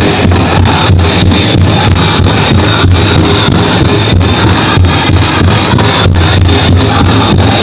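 Powwow drum group playing a chicken dance song: a big drum struck in a steady, fast beat under the singing, loud.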